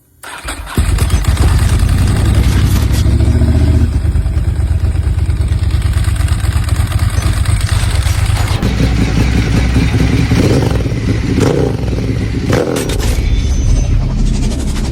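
Ducati motorcycle engine running loud. It cuts in within the first second, and its note changes about two-thirds of the way through.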